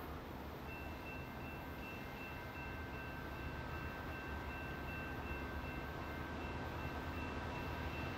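Sounder commuter train approaching on the line, a low rumble growing slowly louder. A faint steady high-pitched ringing joins about a second in.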